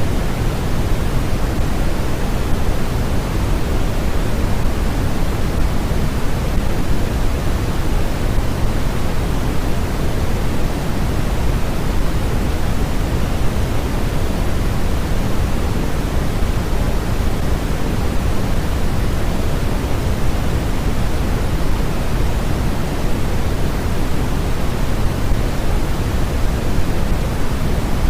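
Steady white-noise track: an unchanging rushing hiss, heaviest in the low range and thinner toward the top.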